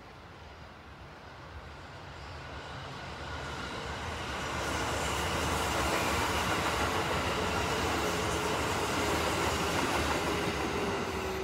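Electric commuter train passing, its wheels running on the rails. The noise builds over the first few seconds, stays loud through the middle with a steady tone in the later seconds, and begins to fade near the end.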